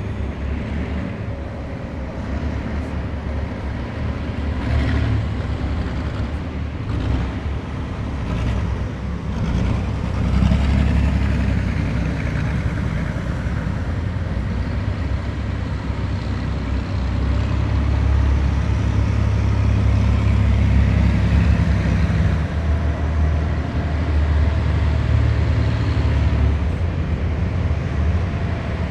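A column of heavy military vehicles driving past: a deep, continuous engine rumble that swells as vehicles go by, loudest about a third of the way in and again past the middle.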